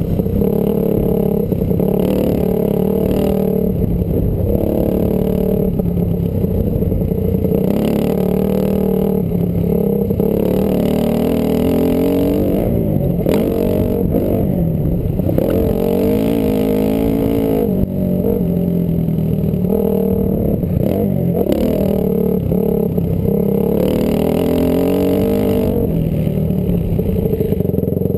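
Honda CRF250R's single-cylinder four-stroke engine revving hard around a motocross track, its pitch climbing and dropping again and again as the throttle opens and closes, heard close up from a helmet camera.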